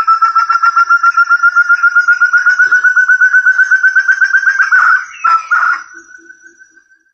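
Forest partridge (burung terung / puyuh hutan) calling: a fast, even run of whistled notes, about ten a second, slowly rising in pitch, breaking off about five seconds in with a few fainter notes after it.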